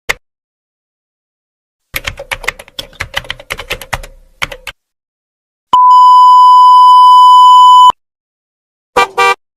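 A string of separate sound effects: a single click, then about three seconds of rapid irregular clicking like typing on a keyboard, then a steady high censor-style beep held for about two seconds, and a short two-part electronic blip near the end.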